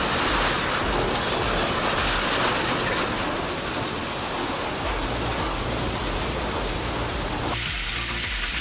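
Industrial shredder grinding through material: a loud, steady grinding noise whose character changes abruptly about three seconds in and again near the end. A low bass line from background music runs underneath in the second half.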